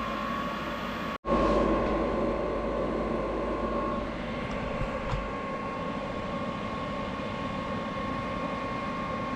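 Vevor 8 kW 12-volt diesel air heater running on its first test burn: a steady blower whir and burner rumble with a thin, steady whine. The sound drops out for an instant about a second in, then comes back louder and settles after a few seconds.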